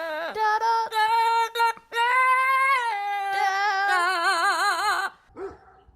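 A high voice singing long, held notes with short breaks between them. The last note wavers with a strong vibrato and stops about five seconds in.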